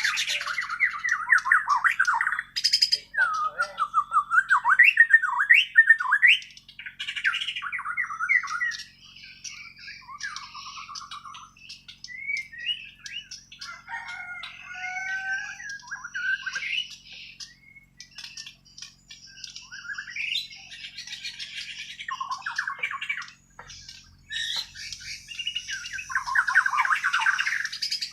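Bornean shama (murai batu) singing its natural, untutored song: a long run of quick, varied phrases of sweeping whistles mixed with harsher, chattering notes, with short breaks between.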